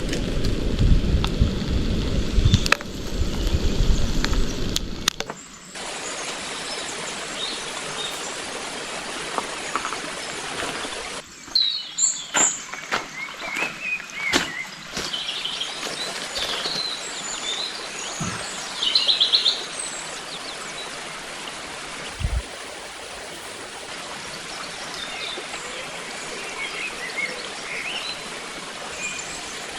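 Small birds chirping over the steady rush of a stream. For the first five seconds a low rumble covers it, and a few sharp clicks come about halfway through.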